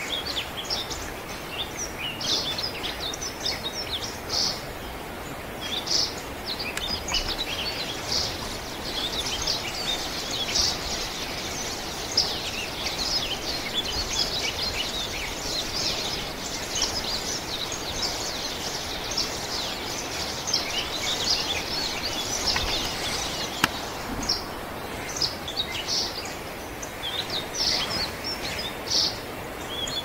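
Small birds chirping: many short, high calls, sparse at first, then crowding and overlapping through the middle before thinning out again, over a steady background hiss.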